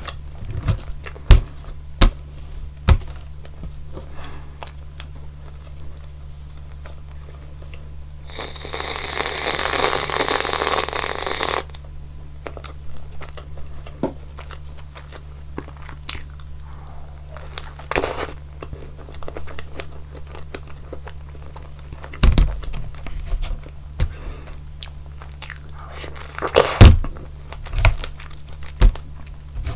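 Close-miked eating of a strawberry and whipped-cream waffle: scattered bites, crunches and chewing over a steady low hum. About eight seconds in there is a rush of noise that lasts about three seconds.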